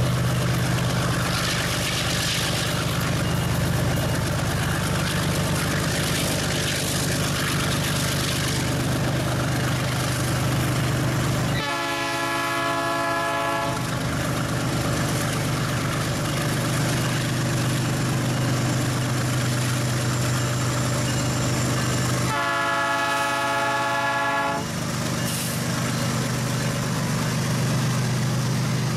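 Diesel freight train running with a steady low engine rumble, and its horn sounding twice, each blast about two seconds long: about twelve seconds in and again about ten seconds later.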